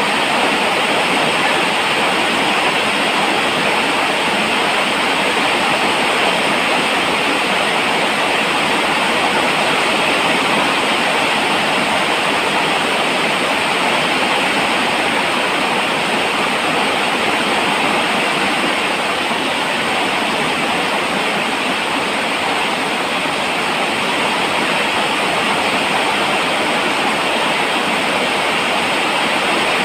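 Steady, heavy rain falling: an even hiss with no breaks or separate drops standing out.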